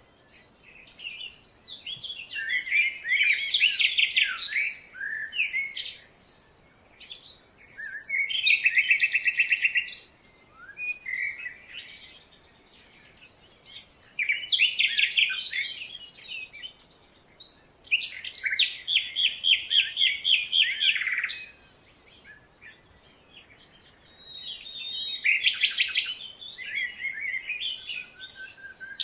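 Songbirds singing in a series of phrases a few seconds long, each made of rapid trilled notes, with short quiet gaps between the phrases.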